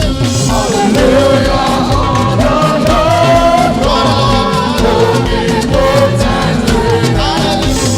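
Live gospel praise music: voices singing over a band with bass and drums keeping a steady, danceable beat.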